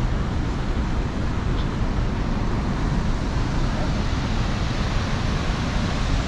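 Steady roar of the Rhine Falls: heavy rushing water with a strong low rumble.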